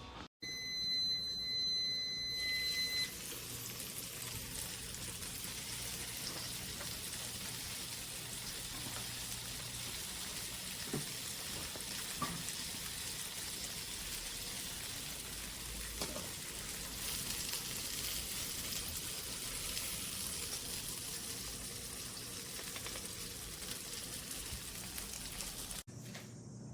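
Food sizzling in a frying pan: a steady, even hiss. A steady electronic beep, about two and a half seconds long, opens it.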